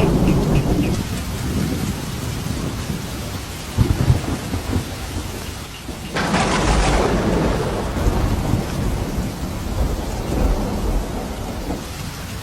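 Thunderstorm: steady rain falling while thunder rumbles low. A sharp thunderclap cracks about six seconds in and rolls off into rumbling.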